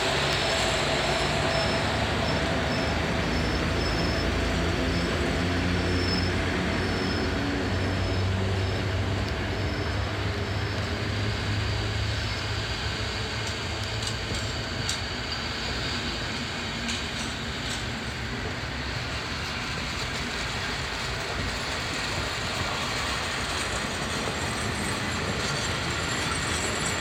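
Historic passenger-and-goods train hauled by FS E656 electric locomotives rolling past close by: a steady rumble of wheels on rail with a low hum in the first half, a thin high wheel squeal near the start, and a few sharp clicks over rail joints in the middle.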